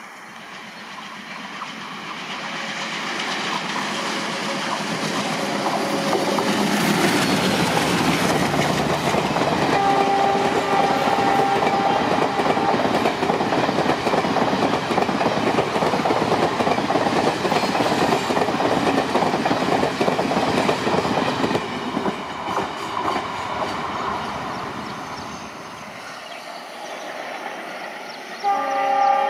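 A train hauled by a WDM3D ALCO diesel locomotive approaches and passes. The engine and wheels on the rails build to a loud, steady rumble with clickety-clack over the rail joints, then fade away. The multi-tone horn sounds for a couple of seconds about ten seconds in, and again, louder, right at the end.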